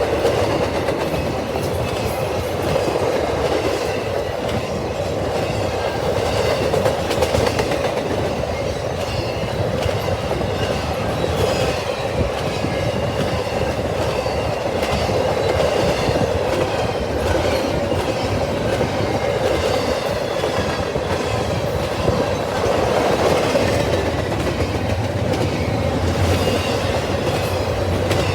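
Long intermodal freight train's cars rolling past: a steady rumble of steel wheels on rail with clickety-clack over the joints and faint wheel squeal at times.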